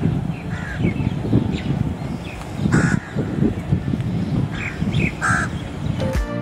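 Several short bird calls over a loud, uneven low rumble; music starts near the end.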